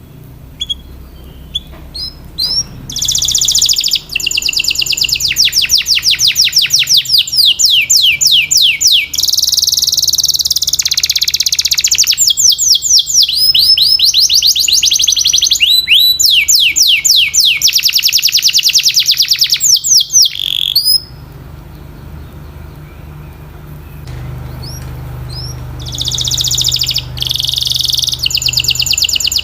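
Domestic canary singing: long rolling trills of fast, evenly repeated notes, one run after another. The song breaks off for a few seconds about two-thirds of the way through, then starts again.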